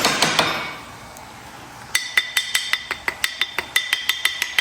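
Rapid metallic tapping, about five taps a second, each with a bright ringing note. One run fades out in the first half-second and another starts about two seconds in.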